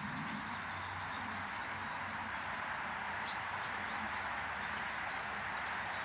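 Small garden birds chirping in short, scattered calls over a steady hiss.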